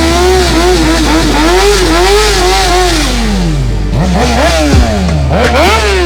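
An engine revved hard and held at high revs, its pitch wavering up and down, then falling away about halfway through, followed by a few quick, sharp revs that each drop straight back down.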